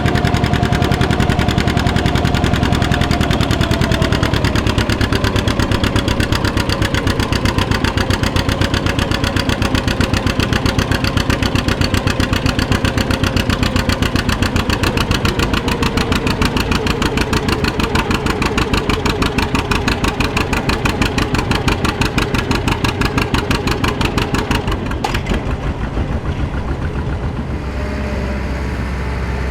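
Farm tractor engine running hard under load in a tractor pull, with a strong, rapid, even exhaust beat whose pitch slowly falls. About 25 seconds in it backs off, and the beat stops near the end.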